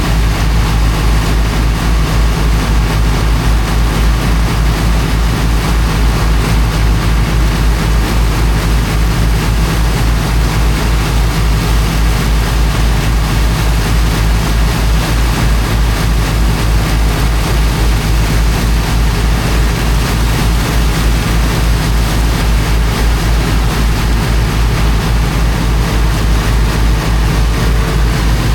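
The engine of a high-pressure water pump running steadily with a fast low pulsing hum, over a constant rushing hiss of the water jet blasting into sand.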